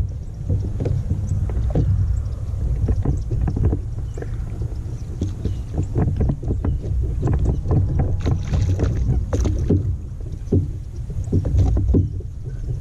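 Fishing kayak under way on open water: a steady low rumble with frequent small knocks and clicks.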